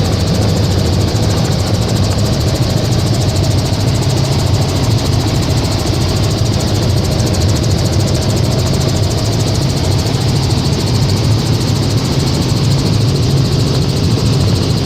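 Helicopter in flight: steady engine and rotor noise.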